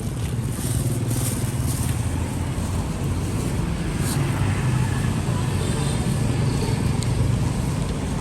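A motorbike engine running steadily nearby, a low even rumble over street noise.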